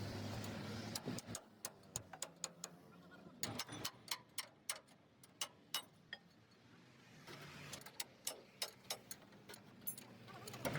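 A run of irregular, sharp taps and clicks, a few a second, with a short lull in the middle. A low steady hum fades out in the first second and a half.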